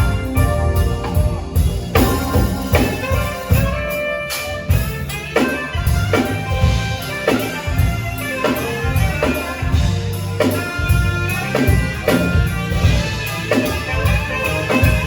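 Instrumental band music with a steady drum-kit beat under sustained melodic notes.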